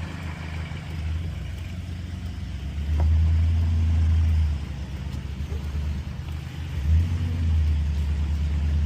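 Old tractor engine running under way, a low steady rumble that grows louder at about three seconds, eases off after a second and a half, and rises again near seven seconds.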